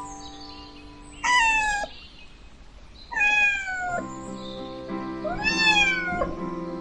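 A cat meowing three times, each meow under a second long and sliding down in pitch.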